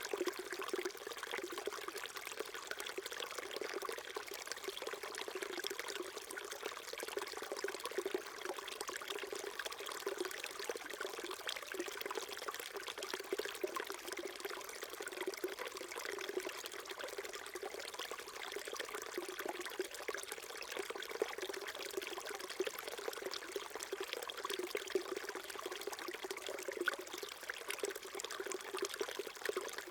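Small stream trickling and babbling over stones, a steady, even running-water sound.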